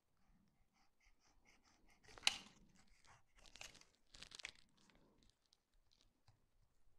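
Faint scraping and crunching of a knife cutting the excess strip of a tyre repair plug flush with the tyre tread, in a few short strokes with small ticks in between.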